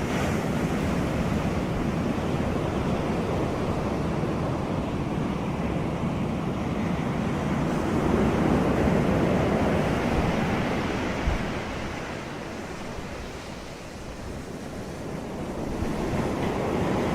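Ocean surf breaking and washing on a beach, a steady rush that swells about eight seconds in, eases off a few seconds later and builds again near the end.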